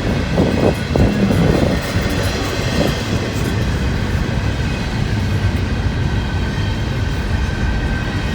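Freight train rolling past close by: a steady rumble of wheels on rail, with faint steady high-pitched tones.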